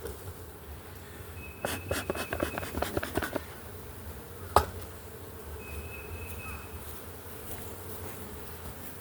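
Honey bees buzzing steadily in an open hive. A quick run of clicks and knocks comes about one and a half to three and a half seconds in, and one sharp knock, the loudest sound, comes about four and a half seconds in.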